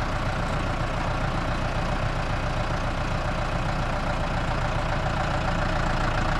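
A heavy engine idling steadily, from the farm machine being used to move the baler accumulator.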